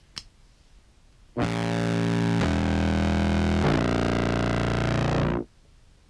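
Contrabass clarinet sub-bass sample played through fuzz and filter pedals: a loud, distorted low drone that starts suddenly about a second and a half in, steps in pitch twice, and cuts off abruptly near the end, gated on and off by the filter pedal's random, tremolo-like modulation.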